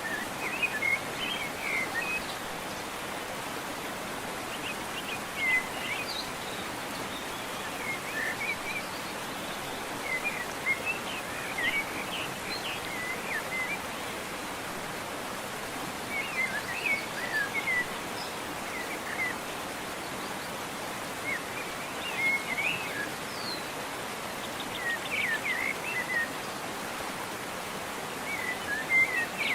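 Waterfall rushing steadily, with birds singing short chirping phrases every few seconds over the water noise.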